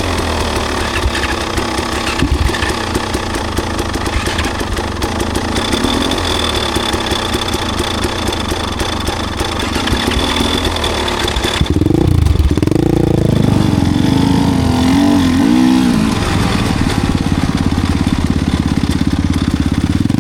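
Enduro dirt bike engine running under way on a trail. It is steady at first, then from about twelve seconds in the engine note rises and falls repeatedly as the throttle is worked.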